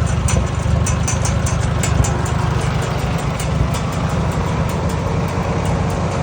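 Engine of a 1949 farm tractor running steadily, with a low drone and a quick, regular ticking.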